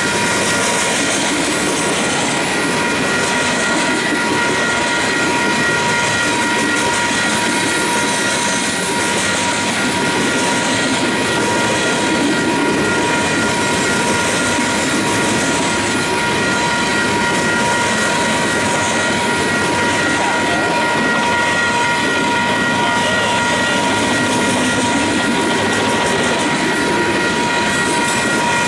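Freight cars of a long mixed freight train rolling past steadily, wheels running over the rails. Several steady high ringing tones sound over it throughout.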